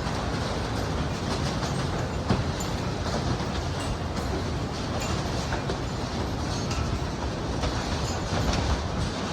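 Strong wind blowing and buffeting the microphone in uneven gusts over a steady low rumble.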